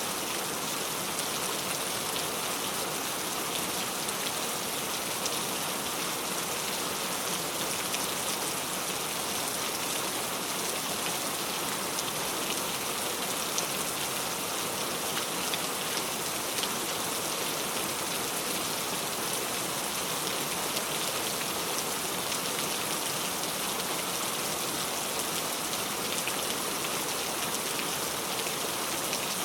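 Steady rainfall: an even hiss of rain with the fine ticks of individual drops landing on a surface.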